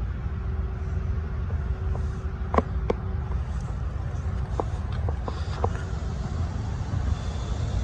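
Steady low outdoor rumble with a few sharp clicks, two about two and a half seconds in and a small cluster around five seconds in.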